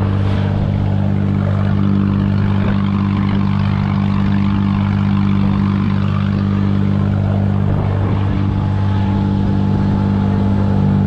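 A wooden fishing boat's engine running steadily under way, a constant low drone, with the wash of water from the bow wake beneath it.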